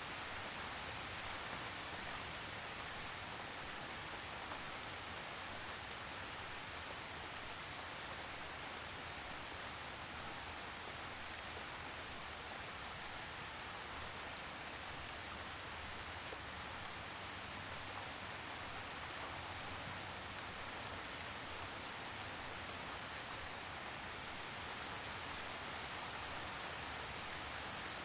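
Steady gentle rain falling on a surface, a soft even hiss with many small drop ticks.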